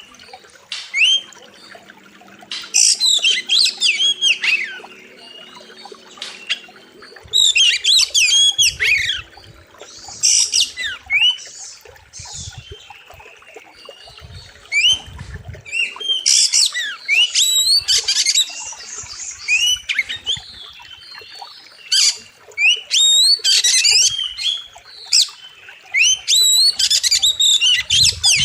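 Oriental magpie-robin singing a loud, fierce song: rapid bursts of sharp whistles and sweeping notes, one phrase every second or two with short pauses between.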